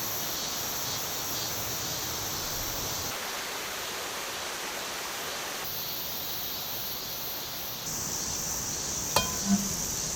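Steady hissing rush of noise with a high, even band above it, shifting abruptly a few times; two sharp clicks near the end.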